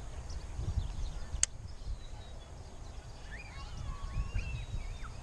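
Birds calling with short, arching whistled notes over a low rumble of wind on the microphone; one sharp click sounds about a second and a half in.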